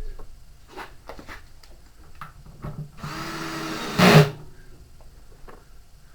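A power drill runs steadily for about a second, ending in a louder burst, after a few scattered tool clicks and knocks.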